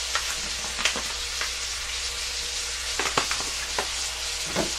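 Sliced beef with onion and garlic sizzling steadily in a wok on a gas stove, with a few short sharp ticks scattered through it, several close together about three seconds in.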